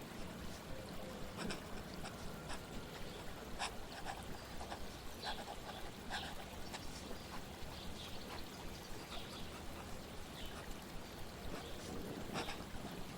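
Flowing water running steadily, with brief sharp sounds scattered through it about once a second.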